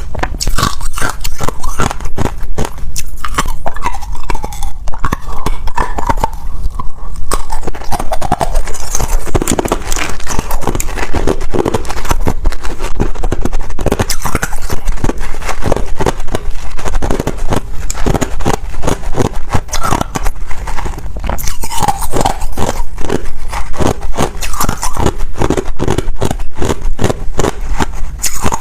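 Ice being bitten and chewed close to the microphone: loud, dense crunching and cracking with many crisp cracks a second.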